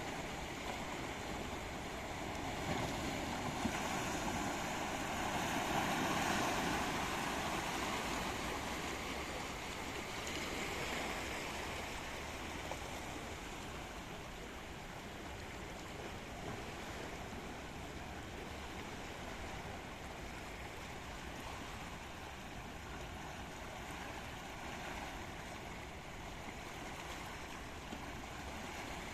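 Sea waves washing in, a steady rushing that swells louder about three to eight seconds in and again briefly around eleven seconds.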